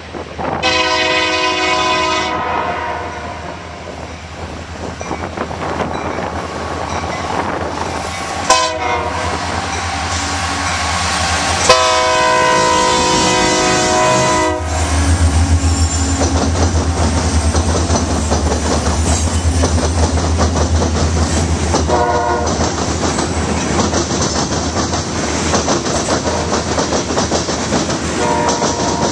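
Union Pacific diesel freight train passing close by: the lead locomotive's air horn sounds several long and short blasts as it approaches. About halfway through the locomotives go by with a heavy low rumble, followed by the covered hopper cars clattering over the rails.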